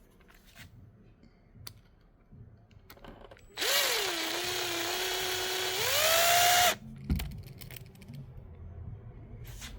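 Electric power drill/driver running for about three seconds. Its whine dips in pitch as it loads up, holds steady, then rises near the end before it stops abruptly. Light handling clicks and knocks come before and after.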